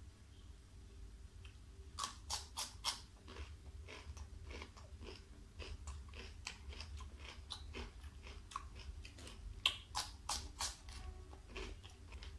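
Close-miked mukbang eating sounds: wet chewing and mouth smacks, heard as runs of short sharp clicks, with clusters about two seconds in and again around ten seconds.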